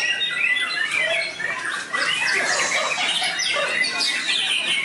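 Several white-rumped shamas (murai batu) singing at once, a dense overlap of quick whistled phrases and trills.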